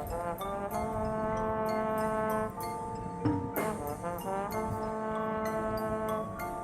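Marching band brass section playing sustained chords, with quick sliding figures twice, over light, evenly spaced percussion ticks.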